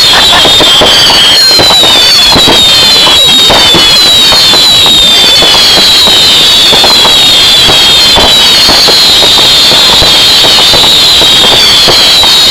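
Firework display going off in a continuous, very loud barrage of pops and crackling bangs, overlaid with many shrill whistles that each fall slightly in pitch.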